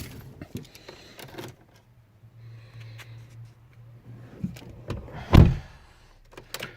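Clicks and a short steady electric hum inside a car, followed by one loud thump about five seconds in.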